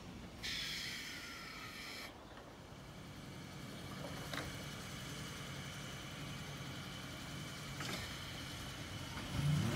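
Island Line 1938 tube stock electric train (Class 483) moving off along the platform: a high whine that starts suddenly and cuts off after about a second and a half, then a low steady rumble with two faint clicks.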